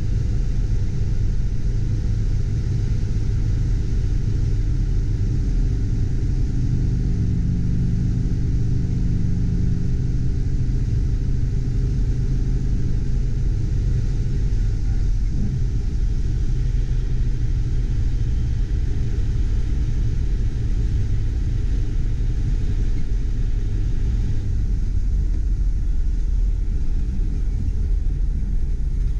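Air-cooled flat-four engine of a 1969 Porsche 912 heard from inside the cabin at highway cruise: a steady low rumble with road and wind noise, easing a little near the end as the car slows.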